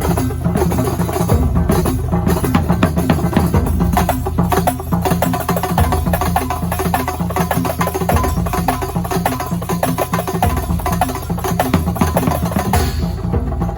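Kuntulan music: a percussion ensemble of frame drums and drums playing a dense, fast rhythm over a steady low accompaniment.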